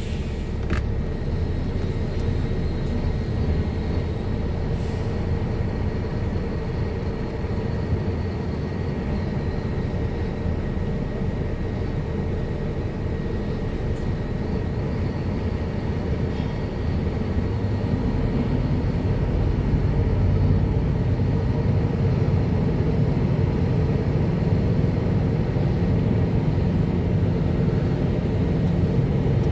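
Heavy truck running on the road: a steady engine and road rumble that grows a little louder about two-thirds of the way through.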